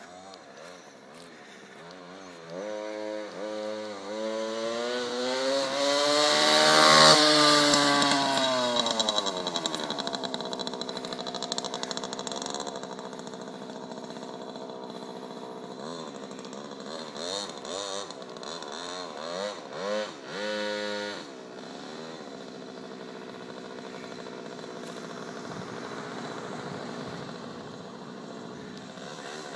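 Small mini-bike chopper engine riding past: its pitch and loudness climb to a peak about seven seconds in, then drop as it moves away. The engine keeps running at a distance, with a few short revs later on.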